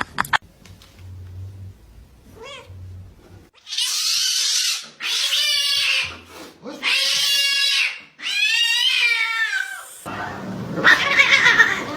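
A cat meowing loudly: four long, drawn-out calls of about a second each, bending in pitch, followed by a harsher, noisier sound near the end.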